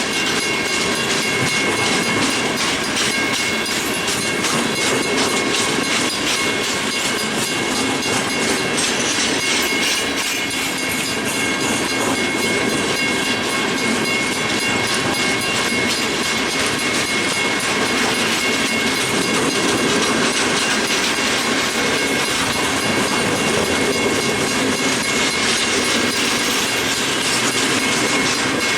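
Freight train cars rolling steadily past, their wheels clicking over the rail joints, with a thin high steady whine from the wheels on the rails.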